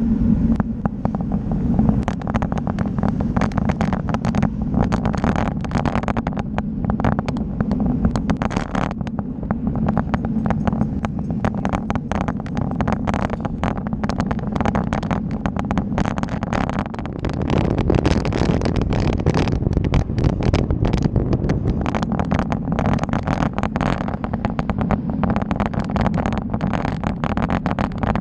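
Wind buffeting the microphone of a camera riding along on a bike, with a steady low rumble of travel and constant crackling, getting somewhat louder about two-thirds of the way through.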